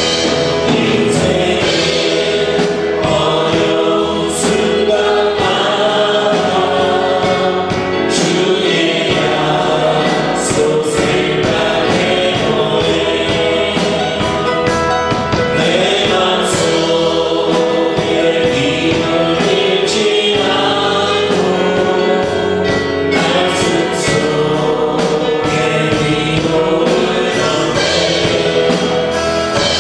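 Congregation or choir singing a Korean worship song with band accompaniment and a steady beat.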